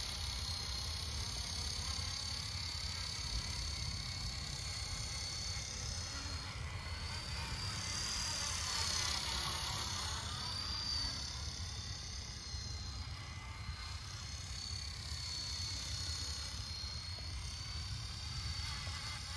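Electric radio-controlled helicopter in flight: a steady high-pitched motor whine that wavers slightly in pitch, with the rotor sound swelling and sweeping as it passes close about eight to ten seconds in. A steady low rumble runs underneath.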